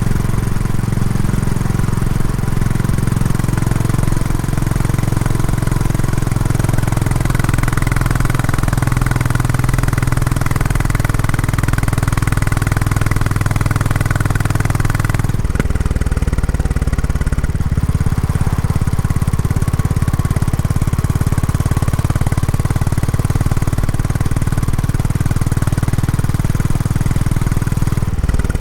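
Royal Enfield Classic 350's single-cylinder engine running through its stock exhaust while riding during break-in. About halfway through the note changes abruptly, the higher sounds dropping away and the low thump shifting.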